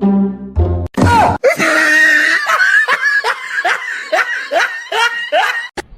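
A person laughing hard in a quick run of short rising 'ha' sounds, about three a second for some four seconds. It follows a second of background music and a sudden loud noise about a second in.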